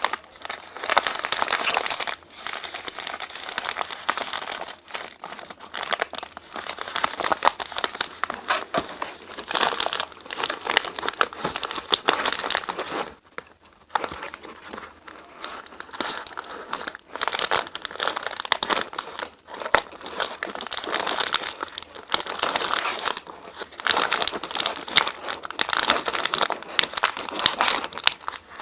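Packaging being handled and unwrapped, crinkling and rustling in stretches with brief pauses, the longest about 13 seconds in.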